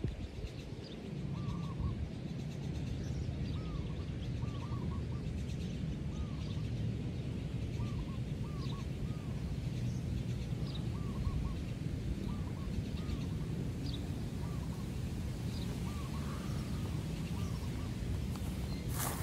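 Birds calling with short chirps, often in pairs, repeated every second or so over a steady low background rumble. A brief sharp noise comes at the very end.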